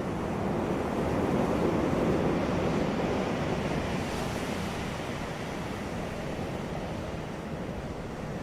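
Sea waves breaking and washing on a beach: a steady rush of surf that swells about a second in, peaks around two seconds, then slowly eases back.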